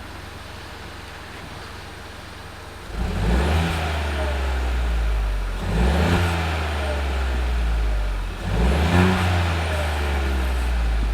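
Ford Fiesta Zetec S EcoBoost engine on its stock exhaust, heard from outside the car while not yet fully warm. It idles, then from about three seconds in it is revved three times about three seconds apart, staying above idle between the blips.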